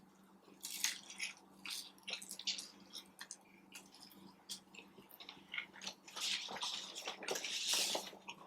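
A person chewing and biting food close to the microphone: irregular soft wet mouth clicks, getting busier from about six seconds in.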